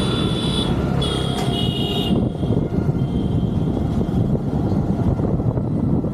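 Motorcycle on the move, its engine and road noise making a dense, steady low rumble. A high, steady pitched tone sounds over it for the first two seconds, with a short break just under a second in, and a fainter one follows a second later.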